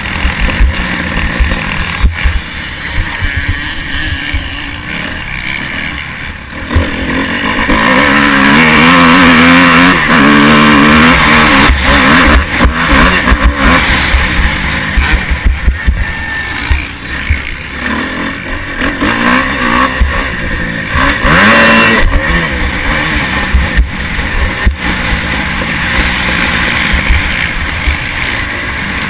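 Motocross bike engine heard from an onboard camera, revving up and down through the gears and loudest for several seconds in the middle. Wind buffets the microphone, and sharp knocks come from the bumps of the track.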